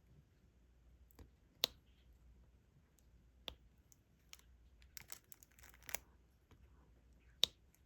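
Diamond painting work: sharp small clicks and taps of a stylus picking up resin drills and pressing them onto the canvas. Three louder clicks come a couple of seconds apart, with a quick run of lighter clicks about two thirds of the way through.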